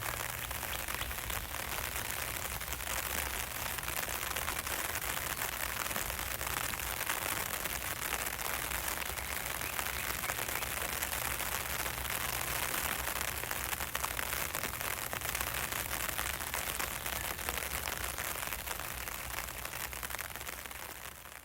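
Rain falling on an umbrella: a steady, dense crackle of many small drop hits on the canopy, fading down just before the end.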